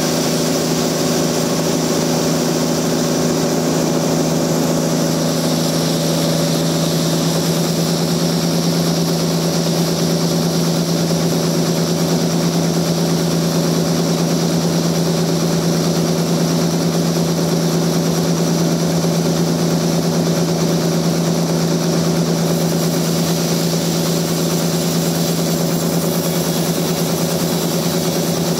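Sawmill machinery running steadily, a constant hum that holds one pitch with no breaks.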